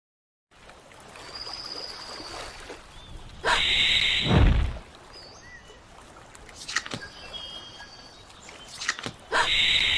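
Sound-effects track of a short animation: a quiet outdoor ambience with a few faint chirps, broken by two loud bursts of rushing noise, the first about three and a half seconds in with a deep rumble that falls away, the second near the end. It starts and stops abruptly.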